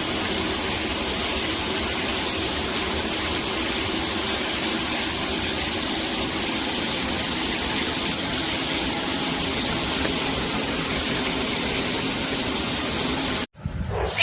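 Water spraying steadily from an 8-inch rain shower head, an even loud hiss that cuts off suddenly near the end.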